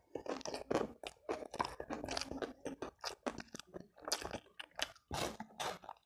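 Close-miked chewing with many irregular, sharp crunches: a mouthful of rice and crispy fried sepat fish being eaten.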